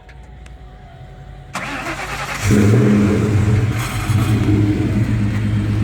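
A high-horsepower car engine being started: a burst of starter cranking about a second and a half in, then the engine catches about a second later and settles into a loud, steady idle.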